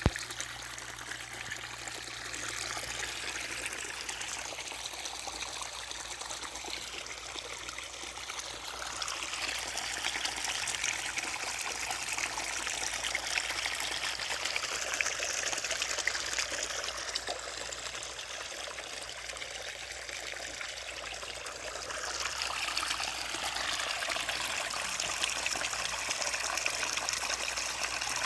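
Irrigation water running and trickling into a farm field in a steady rushing flow that swells about nine seconds in, eases, then swells again near the end.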